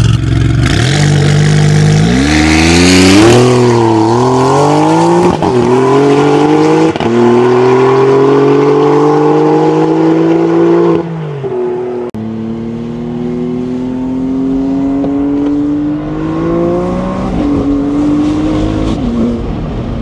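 Maserati MC20's twin-turbo V6 through a PER aftermarket racing exhaust, pulling away and accelerating with the engine note rising steadily. About eleven seconds in the note drops off sharply, then climbs again before easing off near the end.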